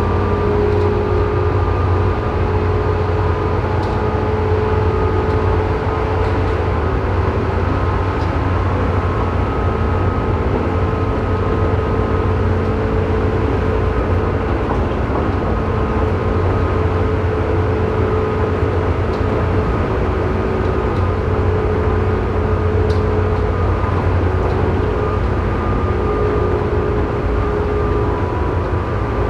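Tobu 9000-series commuter train running at steady speed, heard inside the motor car directly above its armature-chopper controller. There is a steady low rumble of wheels and motors, with steady whining tones from the chopper. This car's chopper is faulty and makes an abnormal noise, low in pitch on this stretch.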